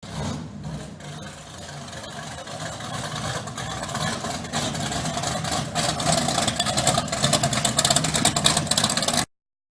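A car engine running, growing steadily louder over several seconds, until the sound cuts off abruptly near the end.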